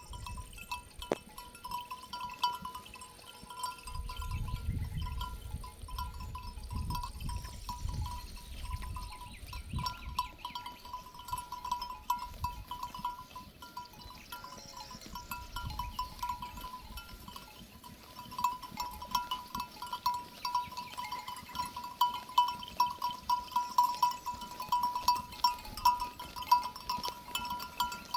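Livestock bells on a grazing flock clanking irregularly, one bell's ringing tone standing out, the jangling getting busier and louder in the second half. A low rumble runs for several seconds early on.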